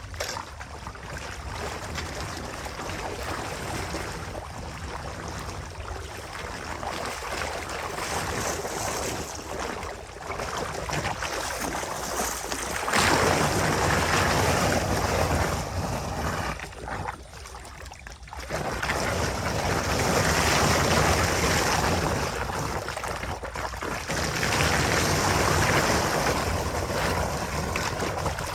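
Water rushing in a steady noisy wash, growing louder about halfway through, dropping off briefly, then returning.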